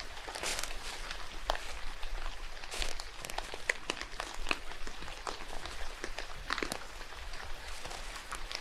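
Rain falling in a forest: a steady patter with many irregular sharp drop ticks.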